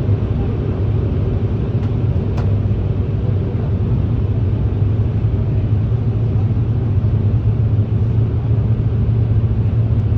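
Airbus A350 passenger cabin in flight: the steady low rumble of the engines and airflow, unbroken throughout.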